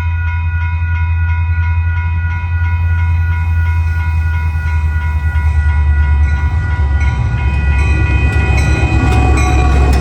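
Train passing close by: a heavy, steady low rumble of locomotive engines with a steady ringing tone over it, and from about seven seconds in the rattle and clicking of wheels on the rails grows louder.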